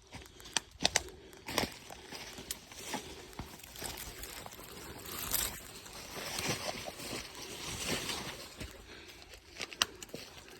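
Irregular footsteps scuffing and splashing, with water sloshing.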